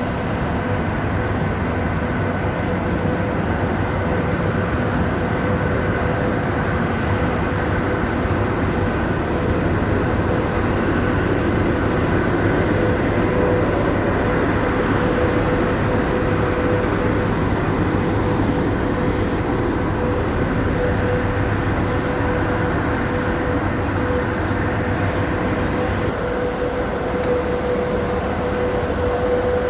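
Suburban diesel train running, with a steady engine and running noise and a constant mid-pitched hum over it.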